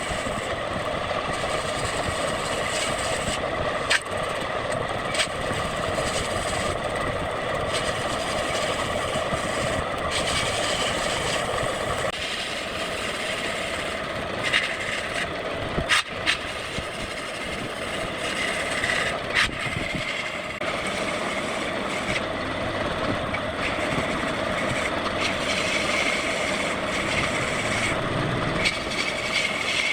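Wood lathe running with a steady motor hum and the hiss of a tool cutting the spinning wood, with a few sharp clicks or knocks along the way.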